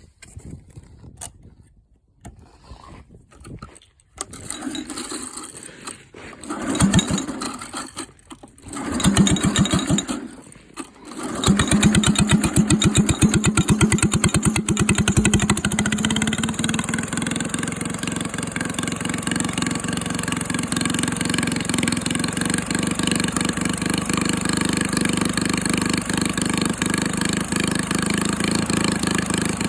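Briggs & Stratton 3 hp single-cylinder engine being started cold: a few short bursts of firing that die out, then it catches about 11 seconds in. It runs unevenly for a few seconds and settles into steady running.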